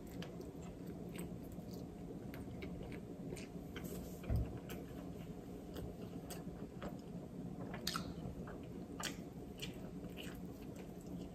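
Faint close-miked chewing of soft chicken Swiss spaghetti, with many small clicks throughout and a dull low thump about four seconds in.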